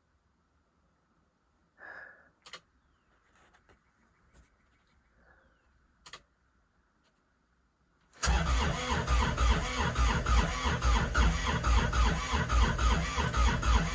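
Kubota RTV900's three-cylinder diesel being cranked over by its starter, beginning about eight seconds in and turning over in an even rhythm without catching. It is a cold start at −8°F on summer diesel that has gelled with ice crystals. Before the cranking there are only a few faint clicks.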